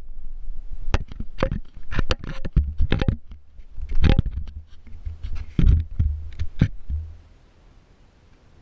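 Radio-controlled monster truck bouncing over rough ground: irregular sharp knocks and clattering thumps from the chassis and suspension over a low rumble, stopping about seven seconds in.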